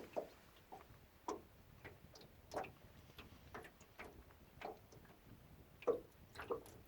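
Small waves slapping against the side of a small boat: soft, irregular knocks, about one or two a second, uneven in strength.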